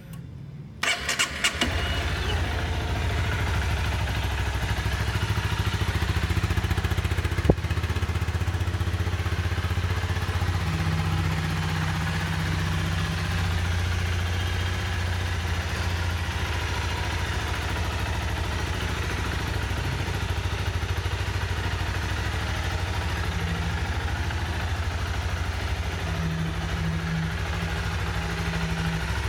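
2011 Honda CBR250R's single-cylinder engine being started, catching after a brief crank about a second and a half in, then idling steadily. One sharp click about seven and a half seconds in.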